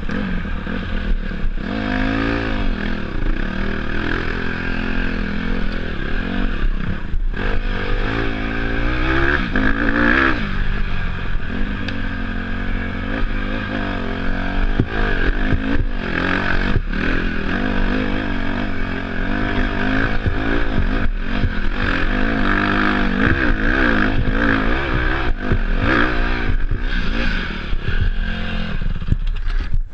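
Dirt bike engine revving up and down continuously as it is ridden off-road, with clattering and scraping from the bike over rough ground.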